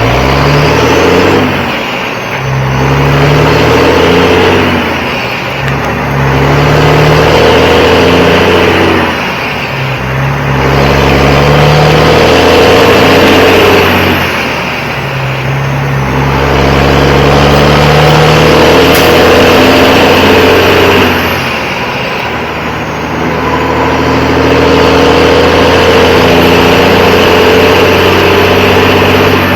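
Heavy diesel semi truck pulling a loaded lowboy trailer, accelerating up through the gears: the engine pulls loud for a few seconds at a time, dropping off briefly at each of about five gear changes, the pulls growing longer in the higher gears.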